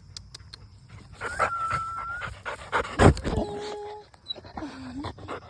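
Dog whining and panting, with a long high whine early and shorter lower whines later. There is a loud thump about three seconds in.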